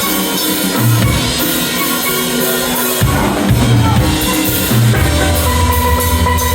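Steel band playing: ringing steel pan notes over a drum kit, with deep bass notes coming in about three seconds in.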